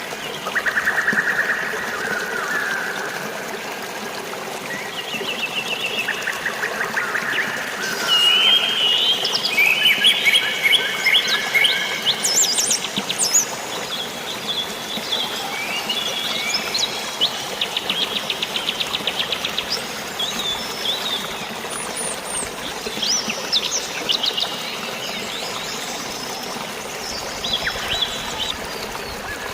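Several birds chirping and trilling in overlapping calls, busiest in the middle, over a steady hiss of rain and flowing water.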